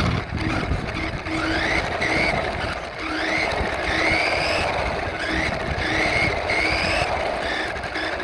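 An RC truck's electric motor whines, rising in pitch with each burst of throttle, about six or seven times in a row. A low hum cuts in and out underneath.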